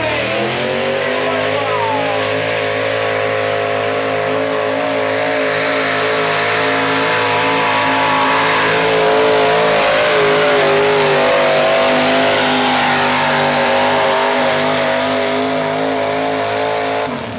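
Stock gasoline pickup truck engine held at high revs under full load while pulling the sled. The pitch dips and climbs again just after the start, then holds with slight wavering, and the sound cuts off suddenly near the end.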